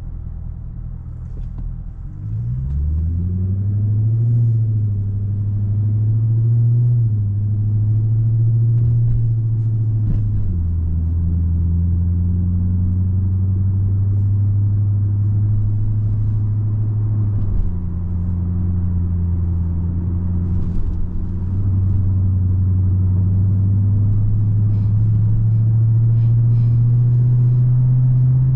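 2010 Hyundai Genesis 4.6-litre V8 running under way: a rising engine note as it accelerates about two seconds in, then a steady drone whose pitch steps down twice, around ten and seventeen seconds in, and climbs again near the end.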